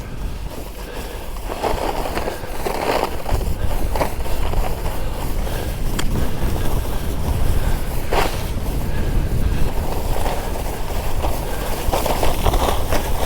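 Skis hissing and scraping over fresh snow through a series of turns, a brief swish with each turn. Wind rumbles steadily on the microphone as speed builds.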